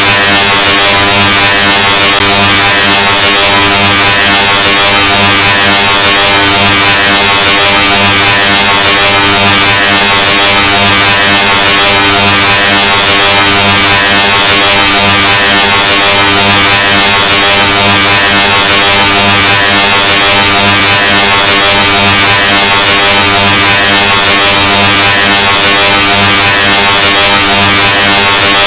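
Extremely loud, heavily distorted sound effect: a steady low buzz with many overtones under a harsh hiss, unchanging.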